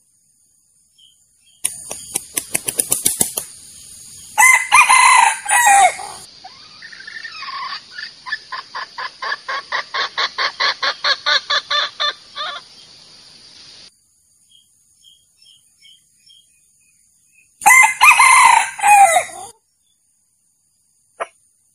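Junglefowl cock crowing twice, the crows well apart. Before the first crow comes a fast rattle of wing flaps. Between the crows runs a long, even series of clucks, about four a second.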